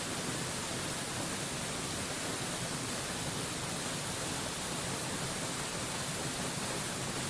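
A waterfall rushing: a steady, even hiss with no change in level.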